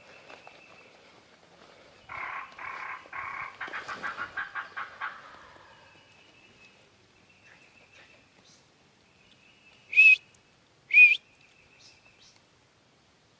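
A run of turkey calls, a few spaced notes that quicken into a rapid series for about three seconds. Near the end come two loud, short, high chirps about a second apart, with faint bird song in the background.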